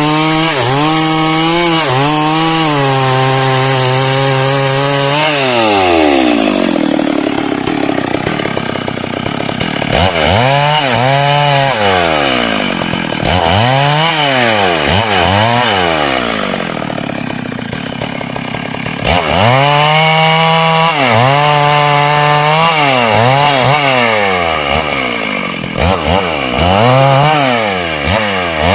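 Two-stroke chainsaw cutting lengthwise through a hardwood heartwood log. The engine runs steady at high speed, slows about five seconds in, then is revved up and down again and again as the chain works through the wood.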